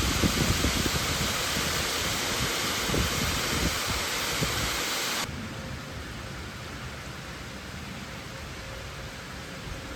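A steady rushing hiss with some low rumbling. It drops abruptly to a quieter, steady level about five seconds in.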